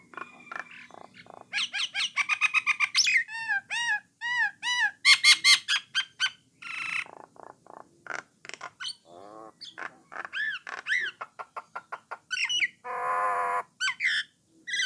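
Jalak Nias starling singing a varied, chattering song: runs of repeated arched whistled notes, many short dry clicks, and a harsh buzzy rattle near the end.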